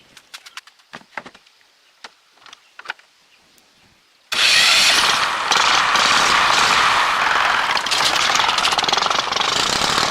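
A few light taps and clicks, then, about four seconds in, the three-wheel truck's engine cuts in suddenly and runs loudly and steadily.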